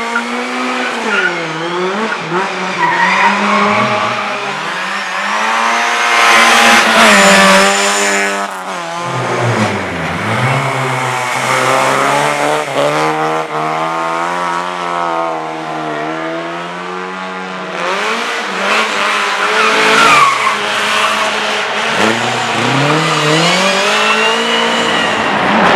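Race car engine revving up and falling back repeatedly as it accelerates, shifts and brakes through corners, with tyres squealing in places. It is loudest about six to eight seconds in and again about twenty seconds in.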